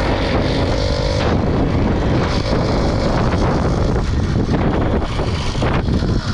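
Wind rushing over the microphone while a small motorbike is ridden, its engine running underneath; a steady tone stops about a second in.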